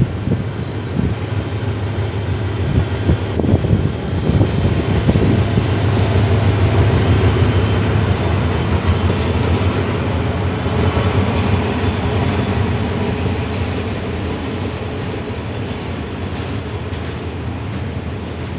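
Freight train of tank wagons hauled by a diesel locomotive passing close underneath: engine and rolling rumble with some knocks in the first few seconds. It is loudest about six seconds in, then settles into the wagons' steady rumble, slowly fading.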